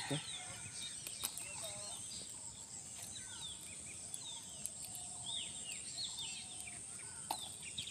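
Birds calling in short chirps that rise and fall, over a steady high-pitched hiss, with a few faint clicks.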